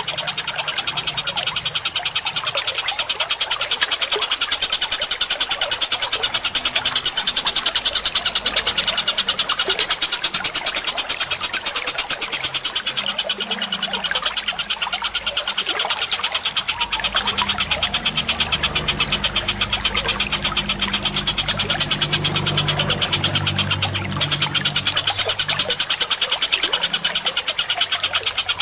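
Fast, dense chattering bird calls from a looped bird-training recording of sparrows, kingfisher and cucak cungkok, laid over running water. A low rumble builds up about halfway through and fades again near the end.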